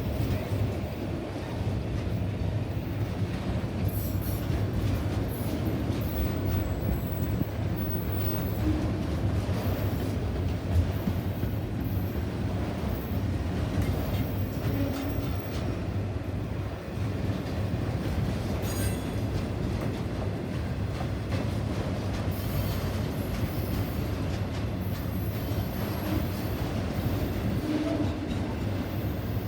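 A train rolling past with a steady low rumble of wheels on rail, and a brief high wheel squeal now and then.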